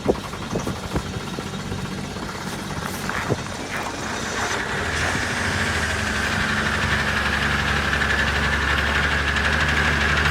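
Vehicle engine just started in extreme cold: a few sharp knocks in the first seconds, then from about four and a half seconds in the engine runs steadily and grows louder, with a steady whine over it.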